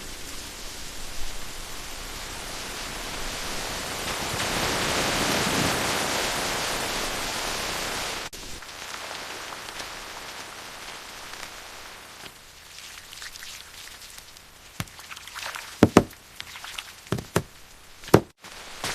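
Heavy rain falling steadily, swelling for a few seconds and then dropping abruptly to lighter rain. Near the end, several sharp knocks cut through the rain.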